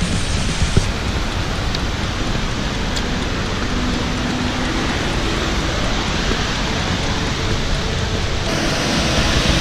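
Steady rushing roar of Bridal Veil Falls, an even hiss of falling water. About a second before the end it turns suddenly brighter and hissier.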